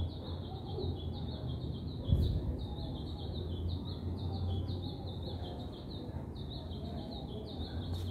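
Small birds chirping, a steady run of short high chirps several times a second, over a low steady rumble. A brief thump about two seconds in.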